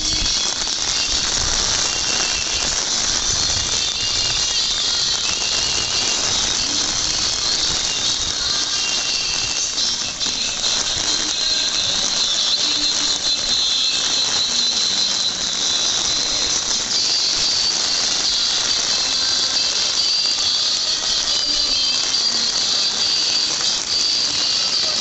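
Heavy rain pouring onto wet paving: a loud, steady hiss.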